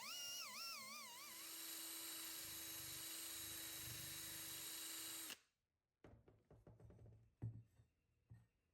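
A power tool running steadily with a high whine, cutting off suddenly about five seconds in, followed by a few light knocks and clicks.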